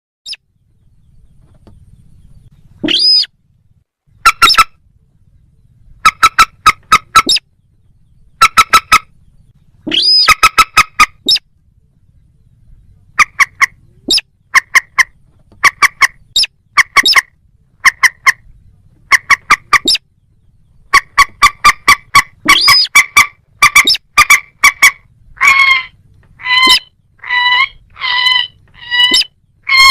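Calls of a common moorhen and a little crake: short, clipped notes in quick runs, with a few calls that sweep up in pitch, and longer, harsher calls repeating near the end.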